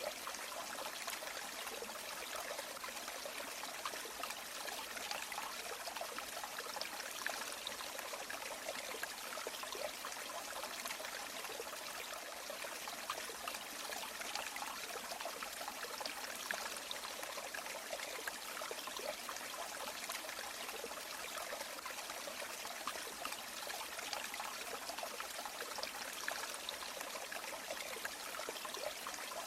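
River water running and trickling in a steady, even flow, mostly light splashing and babbling with no low rumble.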